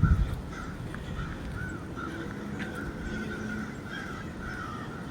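Crows cawing, a run of short caws repeating about two or three times a second.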